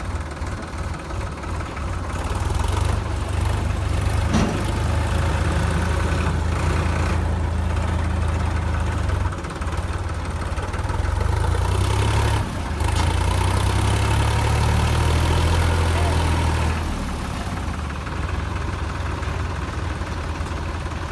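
Tractor diesel engine running, its sound growing louder about two seconds in and easing back after about seventeen seconds.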